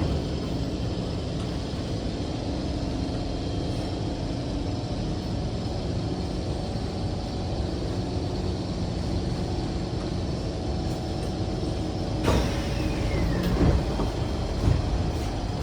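Steady rumble and hum inside a Kawasaki C151 MRT train car. About twelve seconds in comes a sudden loud noise with a falling whine, followed by a couple of knocks.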